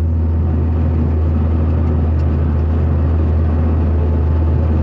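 Tractor engine running steadily under load, driving a rotary cutter (bush hog) while mowing: an even, low drone with no change in speed.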